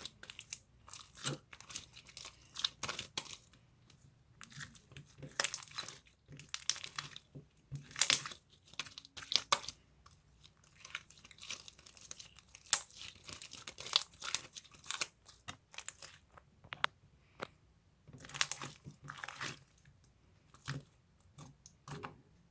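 Close-up crunching and crinkling: irregular clusters of sharp crackles with short pauses between them.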